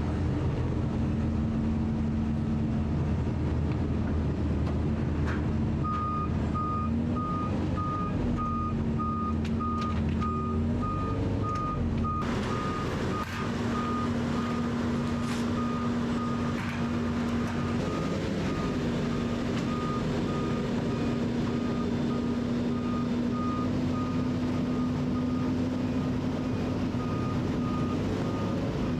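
A heavy vehicle's engine running, with its pitch shifting slightly a few times. From about six seconds in, a reversing alarm beeps at a steady, even rate, marking a vehicle backing up.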